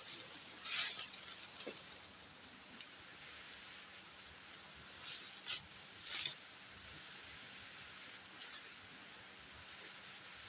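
Steady hiss of rain, with a handful of short rustling bursts.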